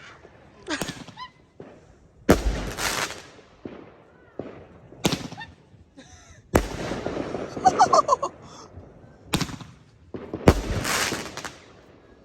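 Fireworks going off outdoors: about five sharp bangs a second or two apart, each trailing off in a crackling hiss.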